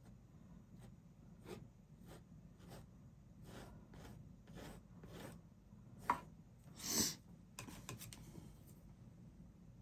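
Faint, short scraping strokes of paint being laid onto a canvas, one or two a second. A sharp tap comes about six seconds in, and a longer, louder scrape about a second later.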